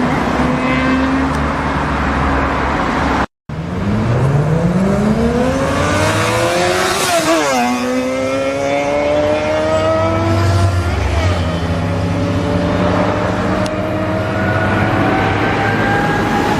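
Sportbike engine running steadily, then, after a short break, accelerating hard. Its pitch climbs quickly, drops sharply at an upshift about seven seconds in, and climbs again more slowly in the next gear.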